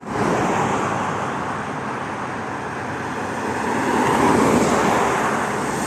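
Steady road traffic noise of cars on the move, swelling a little about four seconds in.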